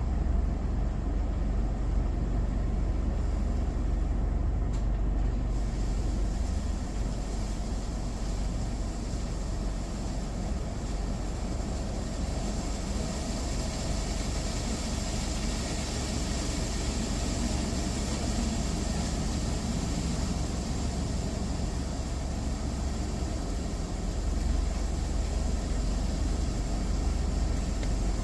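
Steady low rumble of an idling car heard from inside its cabin, with the hiss of a soft-touch car wash's spray growing from about a third of the way in.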